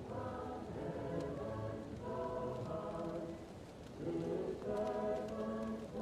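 A choir singing held chords, muffled as if heard from another room, with a short lull between phrases about two-thirds through. Faint crackles of a wood fire pop now and then over the singing.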